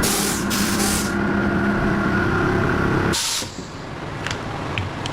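Factory machinery running with a steady hum, with several short bursts of hissing air near the start. About three seconds in the machine sound ends after one more hiss, leaving a quieter background with a few sharp clicks.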